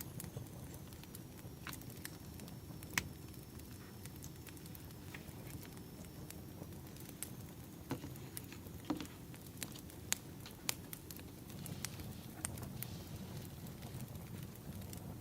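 Firewood burning: a steady low rumble of the fire with scattered, irregular sharp pops and snaps.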